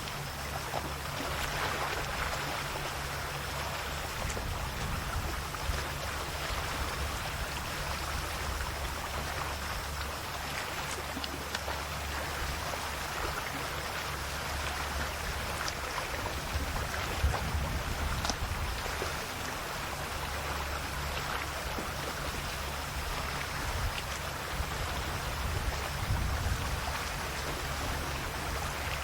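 Calm sea waves lapping and splashing gently on the shore, an even wash of water noise with a few small splashes, over a steady low rumble.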